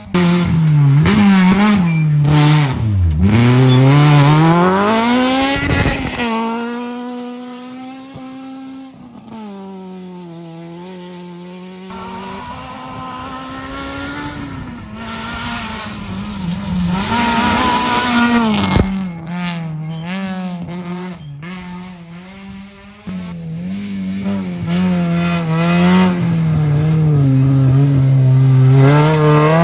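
Rally car engines revving hard on a gravel stage, the pitch climbing and dropping through gear changes and lifts as each car passes, in a series of passes cut one after another.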